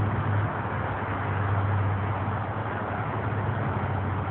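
A vehicle engine idling steadily, a low hum under an even rushing noise.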